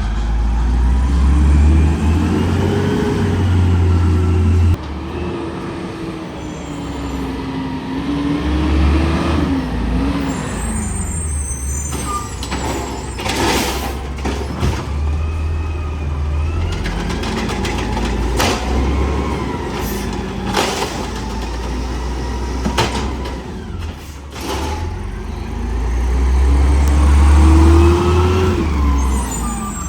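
Garbage truck engine revving up and down as the truck works, with several sharp metallic clanks and bangs in the middle stretch.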